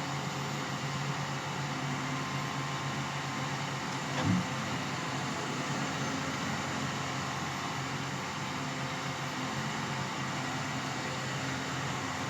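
Forestry harvester's diesel engine running steadily, with a single knock about four seconds in.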